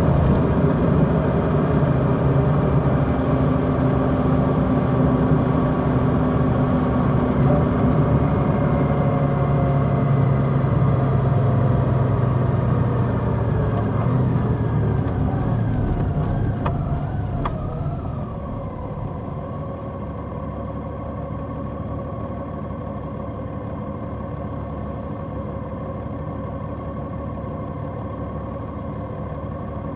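Large motorcycle's engine running under way, a steady pitched engine note over road and wind noise, easing off and getting quieter about eighteen seconds in.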